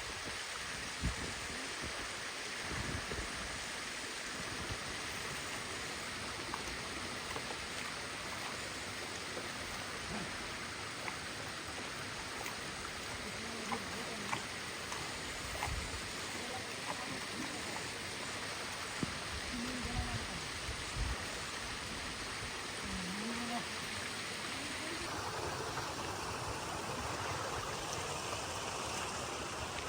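Steady rushing of running water, like a mountain stream, with a few brief, faint pitched sounds in the middle.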